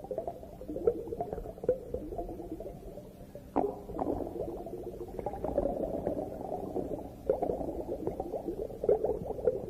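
Underwater bubbling and gurgling: a dense, irregular crackle of small pops, with a sharper click about three and a half seconds in.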